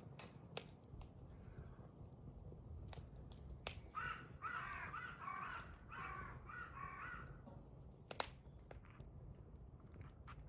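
A crow cawing several times in a row, with a few sharp pops from the burning hardwood, the loudest near the end.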